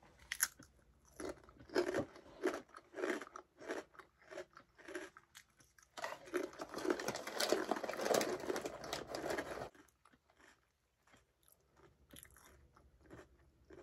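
Crunching and chewing of a crispy tempura-battered seaweed snack: irregular crisp bites for the first few seconds, then a dense run of crunching from about six seconds in that stops abruptly near ten seconds.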